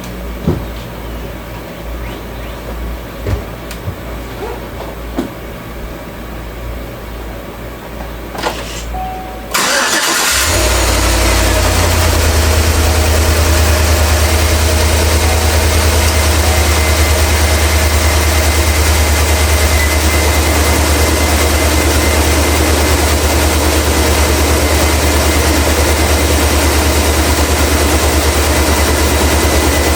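Faint clicks over a low hum, then about ten seconds in a Chevrolet Suburban's V8 cranks briefly, catches and settles into a steady idle with a thin high whine. It is the first start after fresh spark plugs and plug wires.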